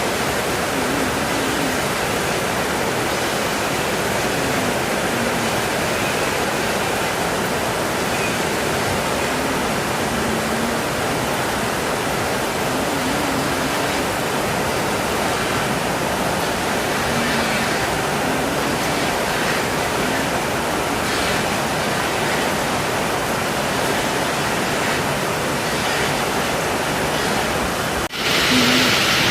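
Heavy rain falling steadily, an even hiss. About a second before the end it breaks off briefly and comes back louder and brighter.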